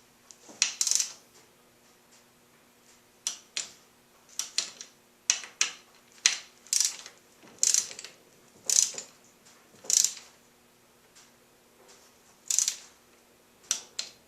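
Torque wrench ratcheting in a dozen or so short strokes, roughly one a second with a pause partway, as bolts are tightened toward 14.5 foot-pounds.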